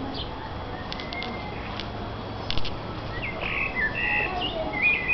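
Wild birds singing: a few short chips, then a warbling song of quick rising and falling phrases in the second half.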